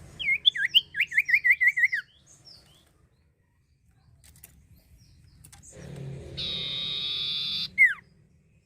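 Common iora singing: a quick run of about eight loud, hooked whistled notes over the first two seconds. About six seconds in comes a steady buzzy tone lasting about two seconds, ending in one sharp falling note.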